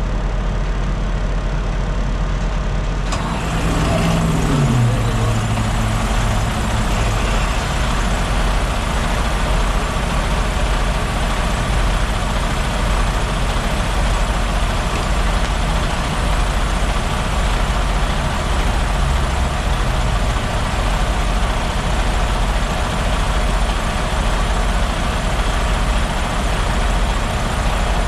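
Detroit DD13 inline-six diesel in a Freightliner Cascadia starting up about three seconds in, after its oil change. It flares, falls back in pitch over a couple of seconds and settles into a steady idle.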